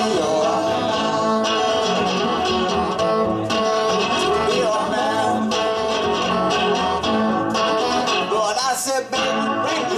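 Live band playing an instrumental passage: guitar strumming with melodic lines over a steady beat.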